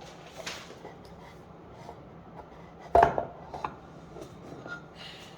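Small craft-kit pieces being handled with light clicks, and one sharp snap about three seconds in as a fence piece is broken off a birdhouse kit's parts sheet, followed by a couple of lighter clicks.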